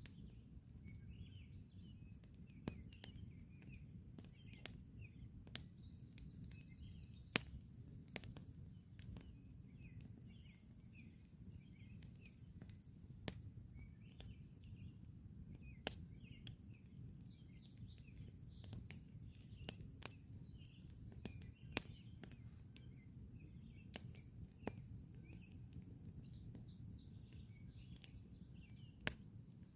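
Campfire crackling, with scattered sharp pops of burning wood, the loudest about seven seconds in, over a low steady rumble. Small birds chirp and twitter throughout.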